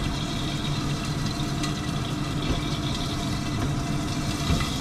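Chicken wings frying in oil in a lidded wok, a steady sizzle under a constant low mechanical hum, with a small knock near the end.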